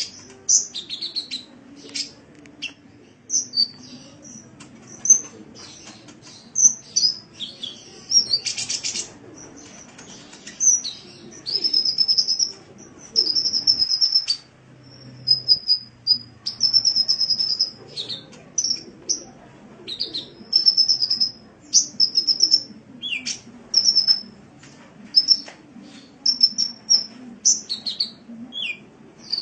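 Sunbird (the 'kolibri' of Indonesian bird-keeping) singing: a fast run of high, thin chips and short twittering trills in quick phrases with brief pauses, over a faint low hum.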